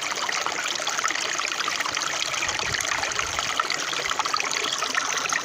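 A stream of running water flowing steadily, a continuous babbling made of many small splashes and trickles.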